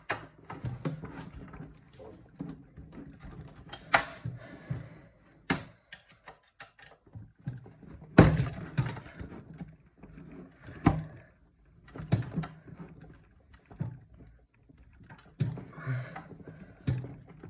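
Irregular metallic clicks and knocks of a screwdriver and PC case parts as a screw is worked loose, with the sharpest knock a little after the middle.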